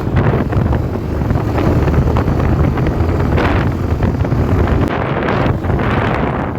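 Wind buffeting the microphone of a moving motorcycle, with the low rumble of the engine and road beneath it; the wind comes in gusts, several surges a few seconds apart.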